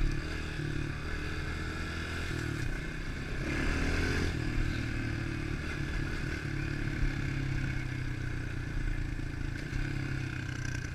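110 cc pitbike's single-cylinder four-stroke engine running under a rider, its revs rising and falling as the throttle is worked, with a louder rougher surge about three and a half seconds in.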